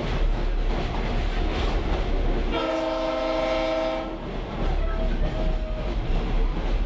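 Train rolling heard from a caboose, with steady rumble and wheel noise. About two and a half seconds in, the diesel locomotive's air horn sounds one blast of about a second and a half, followed by a faint shorter tone.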